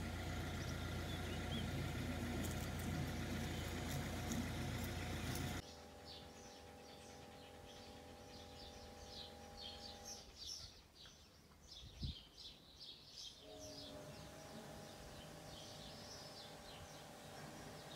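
Small birds chirping in quick runs of short high calls over a faint steady hum, with one sharp click about twelve seconds in. The first few seconds hold a louder steady noise with a low hum that cuts off suddenly.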